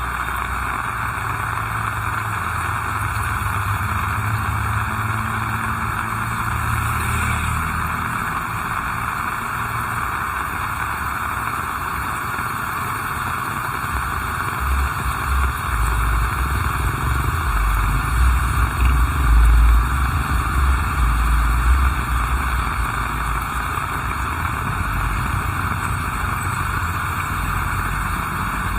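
Heavy rain falling steadily, with a low rumble underneath that swells for several seconds about halfway through.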